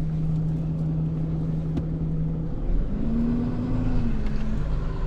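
Tow truck running with a steady low drone that drops out about two and a half seconds in, followed by a slightly higher steady tone for a second and a half over a low rumble.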